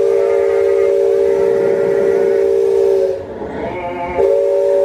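Steam whistle of the Liberty Belle paddle-wheel riverboat sounding a chord: a long, steady blast that stops about three seconds in, then a second short blast near the end.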